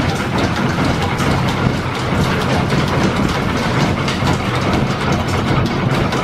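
Belt-driven machine-shop machinery running off the overhead line shaft: a steady, loud mechanical clatter of belts and gearing over a low hum.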